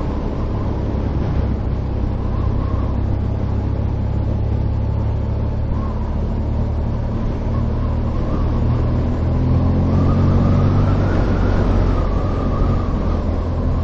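Motorcycle engine running steadily on the road, with wind and road noise; it gets a little louder about ten seconds in.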